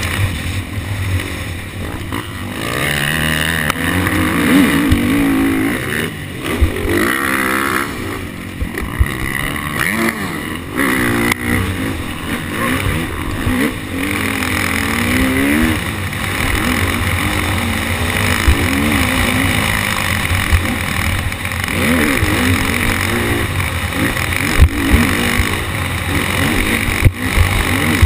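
KTM 250 SX-F dirt bike's four-stroke single-cylinder engine revving up and falling off again and again as it is ridden round a motocross track, with a few sharp knocks near the end.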